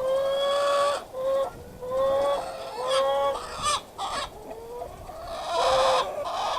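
Chickens calling: a string of about seven drawn-out, even-pitched calls, the first and longest nearly a second, with short breaks between them.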